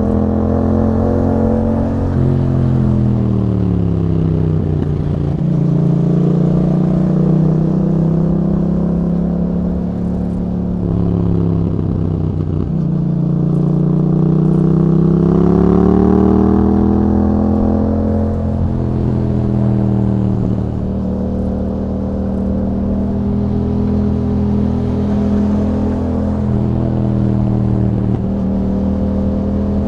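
Yamaha MT-07's parallel-twin engine through an Akrapovic exhaust, revs falling off, climbing again and dropping back while riding, then holding steady near the end.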